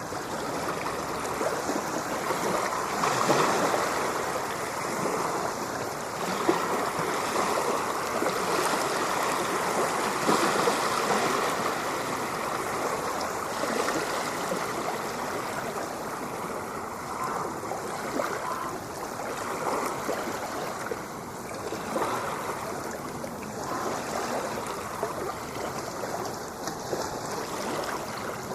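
Ocean waves washing in a continuous rush of water noise, swelling louder now and then.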